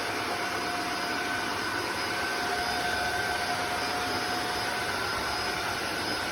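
Tineco Floor ONE S5 cordless wet-dry vacuum's motor running steadily: a rush of air with a thin whine over it.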